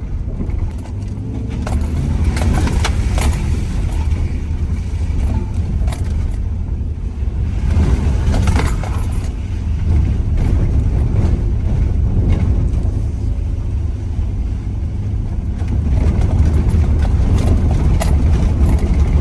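Van driving slowly up a rough, bumpy dirt road, heard from inside the cab: a steady low rumble with frequent knocks and rattles as it goes over the bumps.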